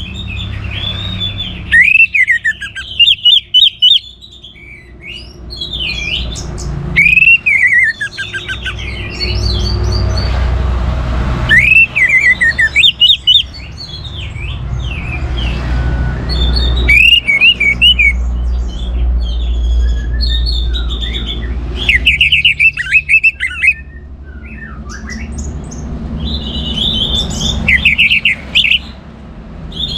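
Orange-headed thrush singing loudly: quick phrases of sweeping, slurred notes and fast trills, repeated every few seconds.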